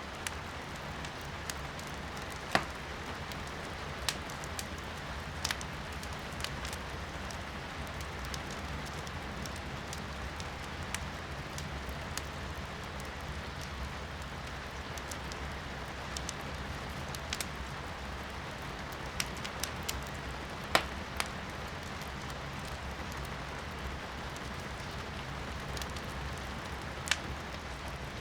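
Wood fire crackling in a fireplace, with sharp pops a few times, loudest about a tenth of the way in and near the end, over the steady hiss of rain heard from indoors.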